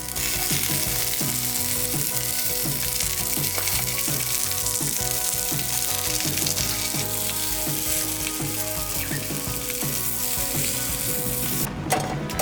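Food frying in a pan, a steady loud sizzle, with background music underneath.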